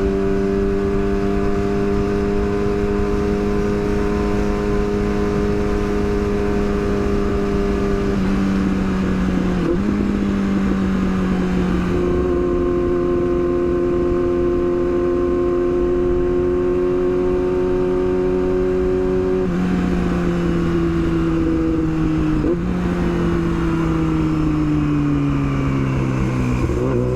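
Yamaha R6 inline-four engine running at steady high revs under way. Its pitch steps a few times, with two brief dips like gear changes, and falls off near the end as the revs drop. Wind rumble runs under it.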